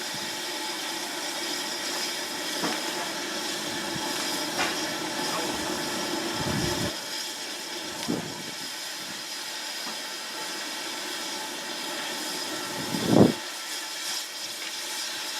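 Steam locomotive hissing steadily, with a few brief thumps, the loudest about thirteen seconds in.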